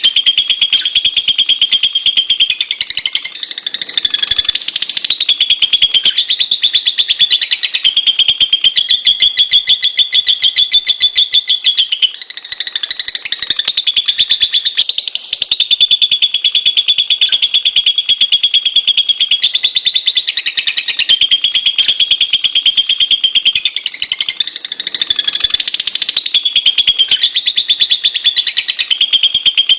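Lovebird chattering in a long, continuous run of very fast, high-pitched chirps, with short dips about four seconds in, near the middle and about two-thirds of the way through.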